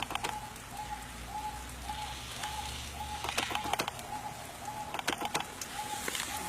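A bird repeating one short, even note about twice a second, with scattered sharp clicks.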